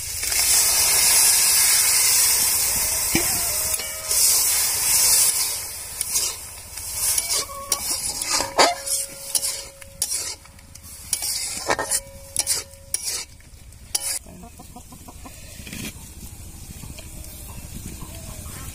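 Boiled masoor dal and spinach hitting the hot oil and fried potatoes in an aluminium kadai, sizzling loudly for the first five seconds or so. Then a metal spatula stirs and scrapes against the pan in a series of clicks. The last few seconds are quieter.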